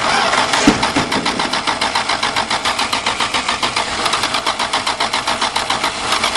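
Dodge slant-six engine cranking on its starter in the cold, an even rhythm of about five beats a second, without catching. The owner thinks the priming squirt of gas wasn't enough.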